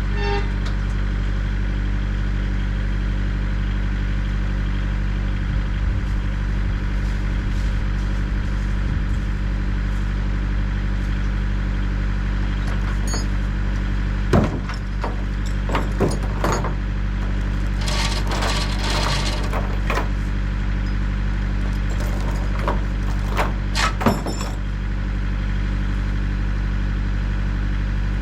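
Tractor engine running steadily under load, pulling a truck with seized rear duals. Several clanks and rattles come in the second half.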